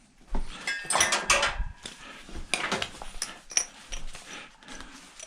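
Metal clanking and clinking as tools and metal parts are handled: a series of separate knocks, the loudest about a second in, ringing briefly.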